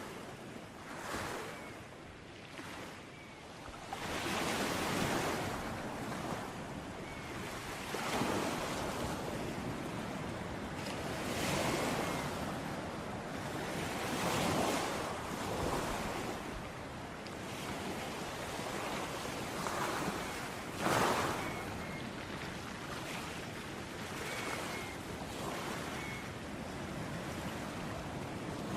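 Ocean waves breaking and washing up on a beach, the surf swelling and ebbing every few seconds.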